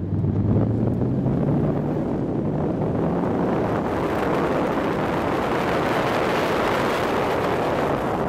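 Turbocharged Nissan S13 Silvia accelerating hard out of a corner, its engine note rising over the first couple of seconds. A heavy rush of wind on the microphone then builds up as the car gains speed.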